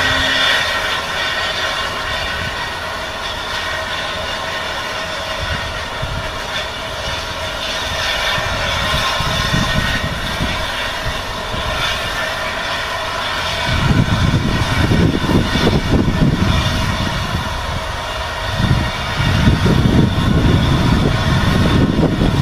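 Steam train on the move, South African Railways Class 24 2-8-4 locomotive hauling wagons: a steady running drone, with heavy low rumbling setting in about two-thirds of the way through and again near the end.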